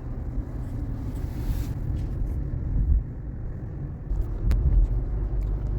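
Steady low road and tyre rumble heard from inside the cabin of a Waymo robotaxi driving along a wet street, with a brief sharp click about three-quarters of the way through.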